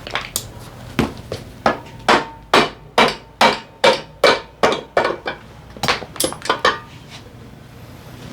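Hammer blows on metal while an engine is being taken apart: a run of about twenty sharp strikes at roughly two a second, each with a short metallic ring, quicker and lighter near the end.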